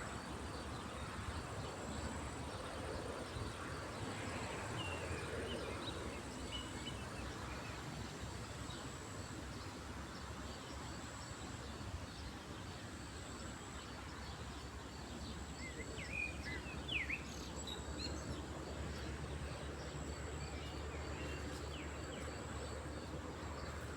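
Lakeside ambience: a steady wash of background noise with scattered short bird chirps, the loudest a quick cluster of chirps about two-thirds of the way through.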